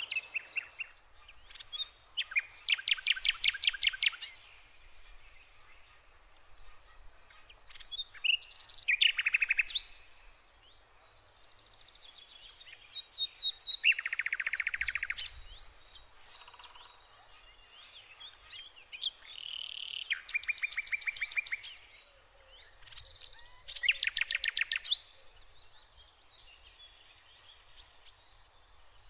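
Songbirds singing: loud songs of rapid, high trills lasting a second or two come every few seconds, with softer chirps and calls between.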